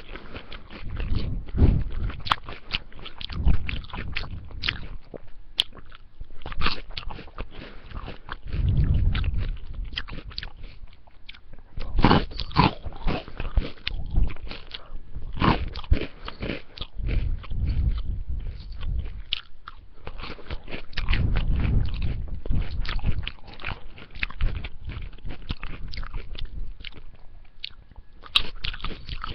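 A person chewing and crunching mouthfuls of spaghetti and salad close to the microphone: irregular crunchy bites and wet mouth clicks, with no pause through the stretch.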